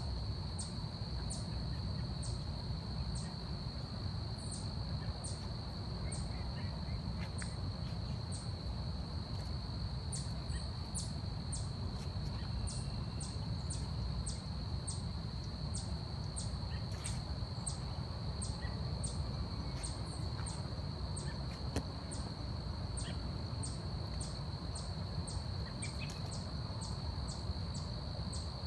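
Forest insect chorus: a steady high-pitched drone, with a short sharp high chirp repeating about twice a second, over a low rumble.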